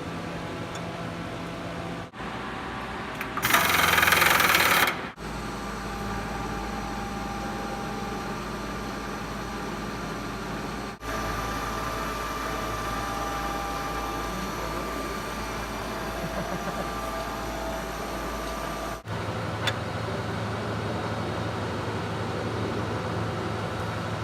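CNC milling machine running a machining program: a steady motor and spindle hum with whining tones, which changes abruptly several times. About three seconds in, a loud hiss lasts about a second and a half.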